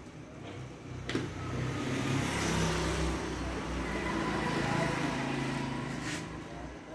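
A motor vehicle engine that swells over a couple of seconds, holds, then fades away, with a sharp click about a second in and another near the end.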